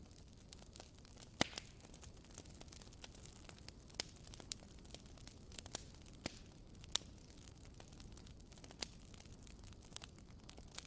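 Wooden candle wick (WoodWick) crackling as it burns: sparse, irregular sharp pops over a faint steady hiss.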